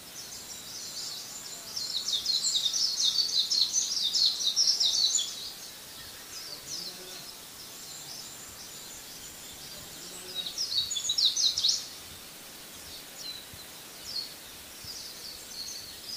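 Small birds chirping in a rapid chatter of short, high notes. The chatter is loudest in two spells, from about two to five seconds in and again around eleven seconds, with scattered chirps between.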